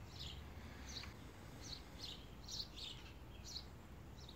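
Faint small-bird chirps, short and high, repeated about twice a second over low steady outdoor background noise.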